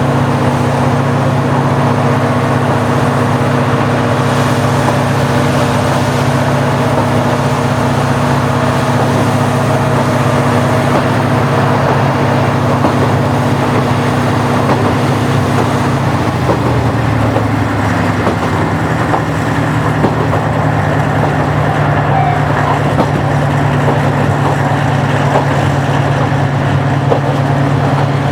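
Diesel railcar of the KiHa 40 series running on its original DMF15HSA diesel engine, a steady loud engine note. About two-thirds of the way through the note changes, dipping briefly and then settling at a new steady pitch.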